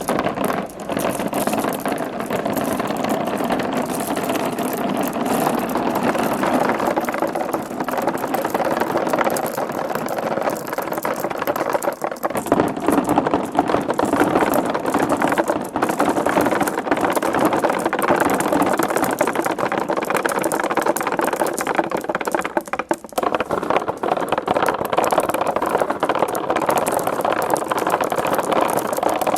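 Marbles rolling and clattering along marble run tracks: a steady rolling rumble with a dense patter of clicks, dipping briefly twice.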